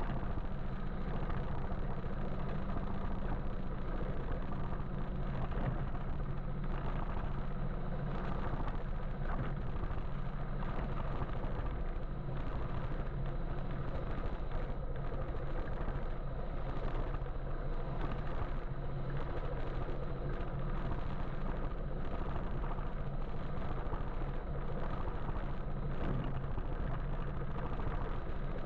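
Steady road and traffic noise heard from a moving electric motorbike: an even low hum with a wash of tyre and street noise.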